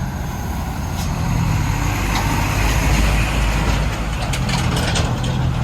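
Diesel engine of a Mitsubishi Canter truck overloaded with sand, running steadily and swelling louder around the middle, with a few light knocks.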